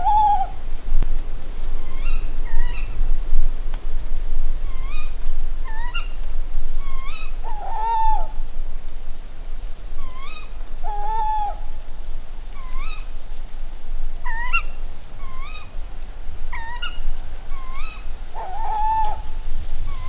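Tawny owls calling: a wavering hoot every few seconds, with many short, sharp, repeated calls in between.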